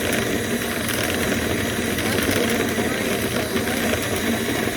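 A steady motor running without a break, with a hiss of moving air over it.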